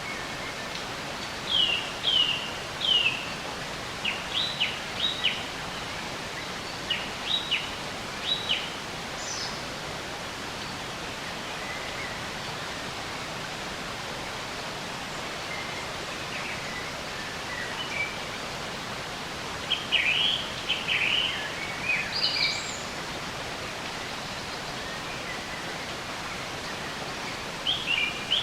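Songbirds chirping in short clusters of quick downward-sweeping notes over a steady rushing background of flowing water.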